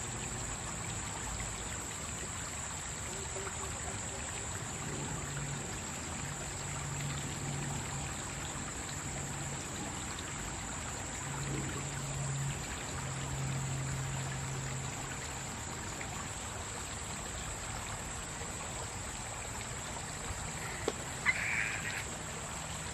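Shallow stream running and trickling over rocks, a steady rush of water. A faint low hum runs under it through the middle, and a few short sharp taps sound near the end.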